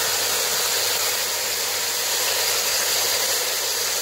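Steady sizzling hiss of beef and spices cooking in a pot on the stove, with a low hum underneath.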